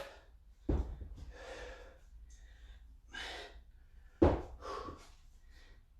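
A man breathing hard under exertion, with short, heavy exhales, and two dull thumps, one about a second in and one about four seconds in.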